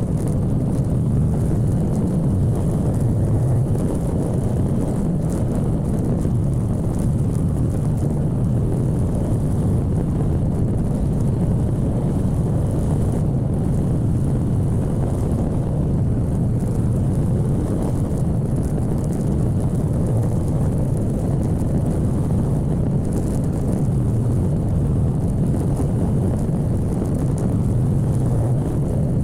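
Motorcycle riding along at a steady pace: a steady, low engine and road rumble, with wind on the microphone.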